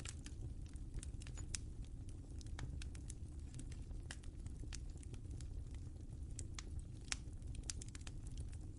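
Wood fire crackling in a fireplace: irregular sharp pops and snaps over a steady low rumble of the flames, with one louder pop about seven seconds in.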